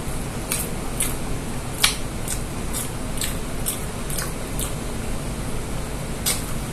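A person chewing a mouthful of barbecued lamb rib meat, with wet mouth smacks heard as sharp clicks about twice a second. The clicks pause for over a second before one last smack near the end, over a steady low hum.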